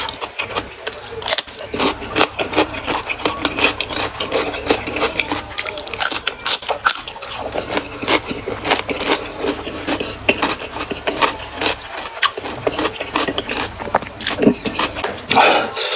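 Close-miked eating: dense, irregular crisp crunching and clicking of raw vegetables being chewed with a full mouth, many crunches a second.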